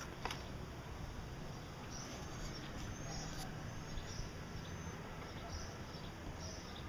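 Small cage birds chirping in short, high calls that recur every second or so over a steady background hiss, with a sharp click just after the start.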